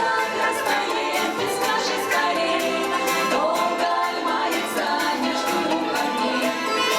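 A vocal group singing with instrumental accompaniment.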